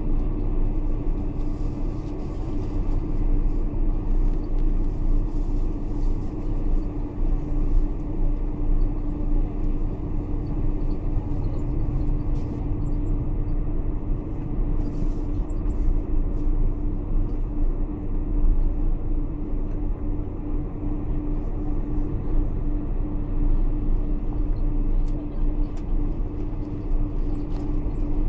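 Boeing 747-400 airliner's engines and airframe running at a steady low rumble with a constant mid-pitched drone, as heard by a passenger on board while the jet taxis before takeoff.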